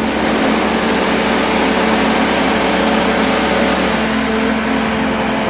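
Mobile crane's engine running steadily under load as it hoists a swim spa, a loud even mechanical noise with a low steady hum.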